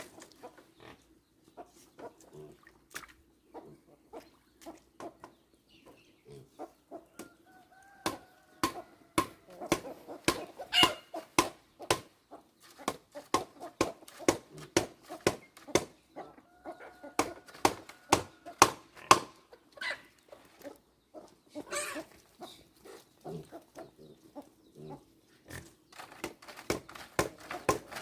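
Chickens clucking over a run of sharp knocks that come sparsely at first and then a few a second from about a third of the way in; the knocks are the loudest sound.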